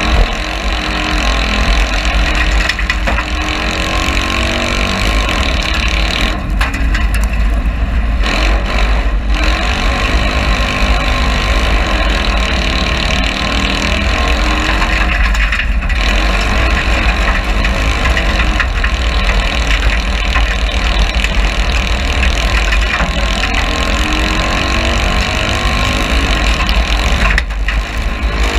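Citroën 2CV cross car's air-cooled flat-twin engine running flat out, heard from inside the cabin, its pitch rising and falling through the gears with several brief dips, over a heavy low rumble.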